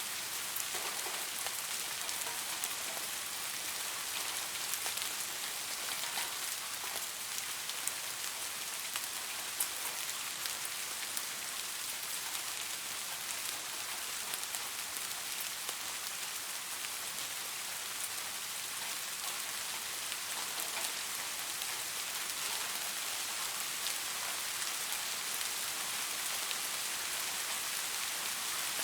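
Steady rain falling on leaves, a dense even hiss with many small drop ticks.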